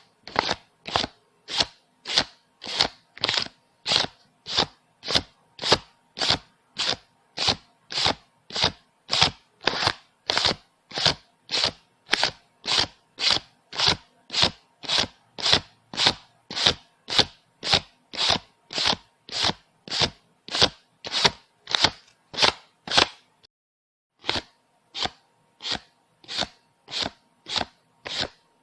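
Paper banknotes being counted by hand, each bill flicked off the stack with a short crisp snap, about two a second in a steady rhythm. The counting pauses briefly near the end, then carries on.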